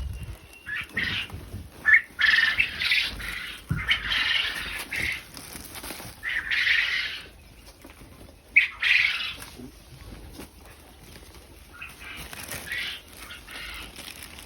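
Quails flapping their wings in short, noisy flurries, about six times, with a couple of sharp knocks.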